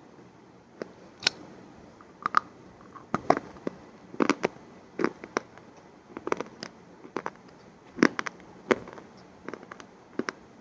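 Close-up crisp crunches, sharp and irregular, about one or two a second, some in quick double or triple clusters.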